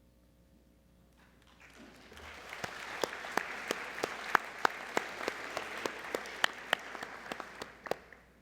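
Audience applauding, starting about a second and a half in and dying away near the end, with a few loud single claps standing out above the rest.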